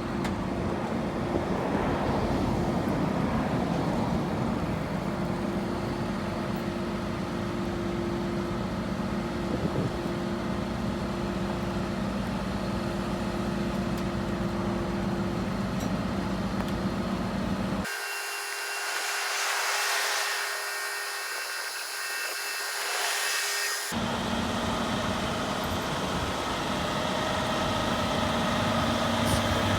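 A vehicle engine running steadily, heard in three stretches with abrupt cuts about eighteen and twenty-four seconds in; the middle stretch is thin and high, without the low rumble.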